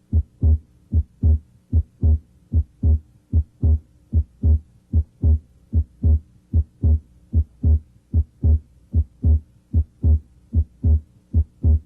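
Human heart sounds heard through a stethoscope at the left third intercostal space: a steady lub-dub at about 73 beats a minute, S1 then S2 in each beat. Both components of the second sound, aortic A2 and pulmonic P2, may be heard as it splits with deep breathing. A faint steady hum runs underneath.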